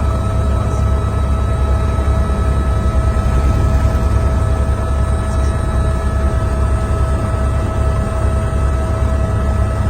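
Helicopter noise heard from inside the cabin: a steady heavy rotor rumble with a constant whine from the turbine and gearbox.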